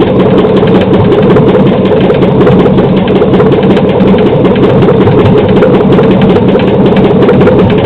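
GM 5.3 L LH6 V8 with displacement on demand (AFM) running steadily at idle on an engine stand, with a fast, even ticking over the running. The tick is taken for a lifter tick, perhaps a stuck AFM lifter, and is hoped not to be rod knock.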